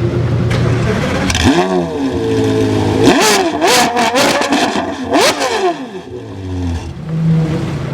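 Porsche Carrera GT's 5.7-litre V10 through a straight-pipe exhaust, idling, then blipped, with a quick rev about a second and a half in and a longer rise and fall of revs in the middle. Sharp pops and crackles come from the exhaust as the revs peak and drop, before it settles back to idle.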